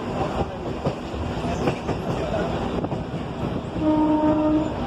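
Mumbai suburban local train running, with wheels clacking over rail joints. A train horn sounds one held note for about a second near the end.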